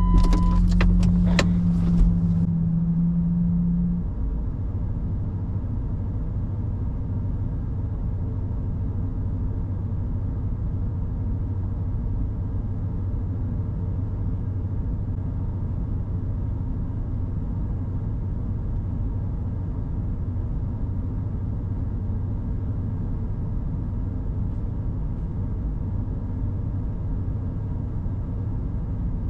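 Pickup truck engine idling steadily, after a few sharp clicks and knocks in the first two seconds.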